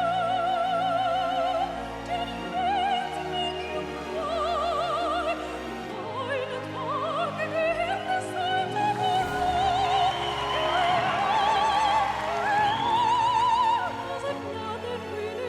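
A woman singing sustained notes in operatic style with wide vibrato over orchestral backing.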